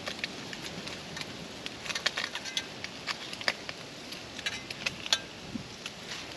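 Hot oil sizzling in a skillet over a campfire: a steady sizzle with irregular sharp pops and crackles.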